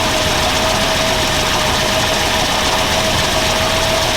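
Engine idling steadily, with a constant hiss and a steady whine held through it.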